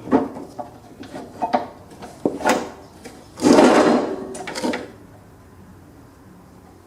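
Metal mower-deck linkage parts being handled and fitted: a string of clicks and knocks, and a louder scraping rattle about three and a half seconds in.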